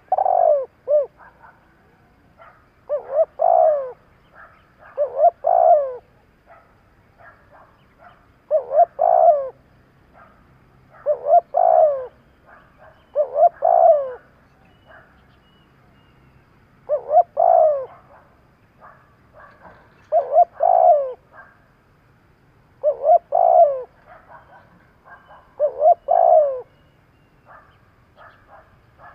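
Spotted dove cooing, its phrase repeated about every two and a half seconds. Each phrase is a short note followed by two longer falling coos, with faint short chirps in the gaps.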